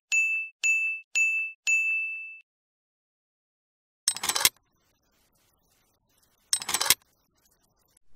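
A high ding chimes five times in quick succession, the last one ringing a little longer. After a pause come two short metallic clinks, about two and a half seconds apart, as a small chain hook is fastened to the front of a toy tractor.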